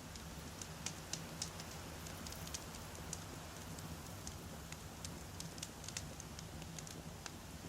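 Wood campfire crackling: frequent small, irregular pops and snaps of burning logs over a low, steady rumble.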